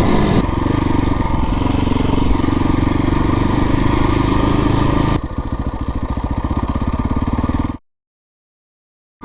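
Single-cylinder four-stroke engine of a KTM 450 EXC dirt bike running at steady revs. About five seconds in, it drops to a quieter, even pulsing at low revs. Near the end the sound cuts off abruptly.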